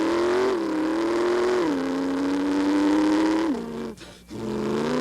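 A man's vocal impersonation of a dragster engine: a sustained buzzing drone that climbs in pitch and drops back in steps, like revving through gear changes. It breaks off briefly near four seconds and starts again.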